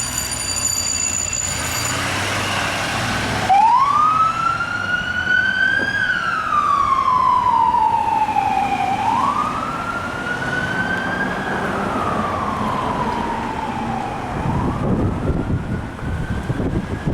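A fire apparatus siren starts a few seconds in and winds up and down in a slow wail, rising three times and falling twice. A low rumble of the rig builds under it near the end.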